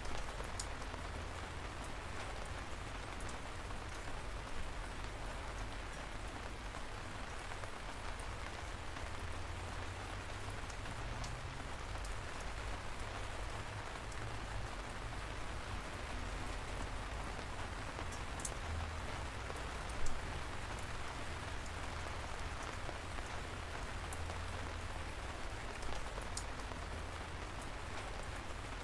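Light rain falling steadily, a continuous even hiss with scattered individual drop ticks, one a little louder about twenty seconds in.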